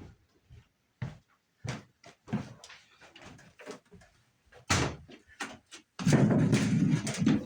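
Irregular knocks and thuds of hand work on wood framing. About six seconds in comes a louder, rough, scraping or rumbling stretch that lasts about a second and a half.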